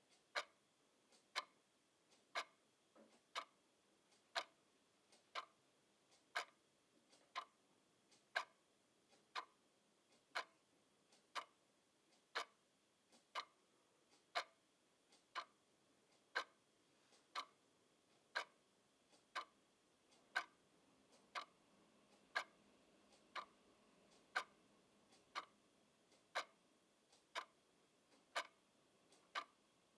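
Clock ticking steadily, about two ticks a second, with louder and softer ticks alternating in a tick-tock pattern.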